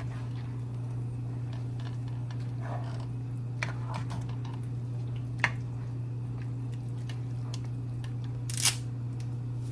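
Spoon stirring pasta, chicken pieces and Alfredo sauce in a pot, with soft squishing and a few clicks of the spoon against the pot, the loudest near the end, over a steady low hum.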